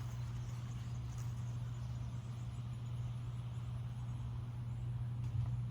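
Steady low hum over faint outdoor background noise, unchanging throughout, with no firework bang or crackle.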